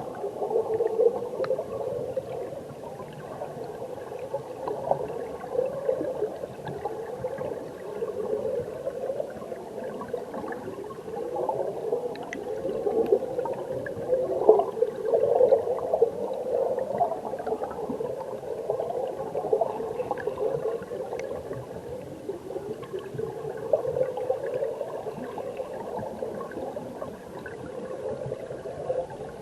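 Mountain stream water heard underwater: a continuous muffled gurgling rush, rising and falling in irregular swells, with faint ticks of bubbles or pebbles.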